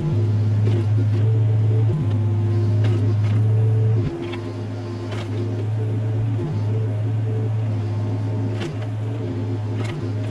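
Mini excavator engine running steadily under hydraulic load, its pitch shifting in steps as the machine works, with scattered knocks and clanks from the bucket working debris.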